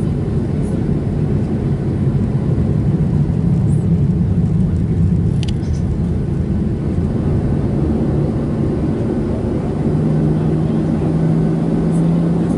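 Steady, loud cabin noise inside a Boeing 737-700: the low rumble of its CFM56 jet engines and airflow, with a steady low hum coming in near the end.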